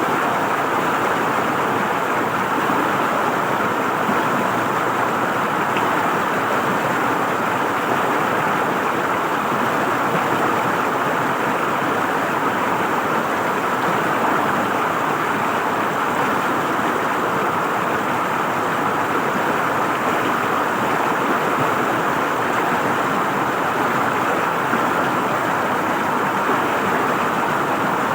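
River water flowing and gurgling over rocks, a steady rushing with no change in level.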